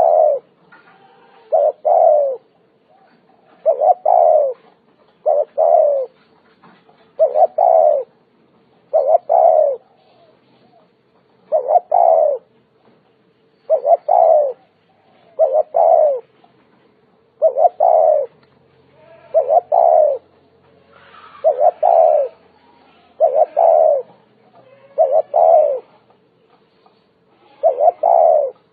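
Spotted dove cooing over and over, each phrase a short cluster of two or three low notes, repeated about every two seconds.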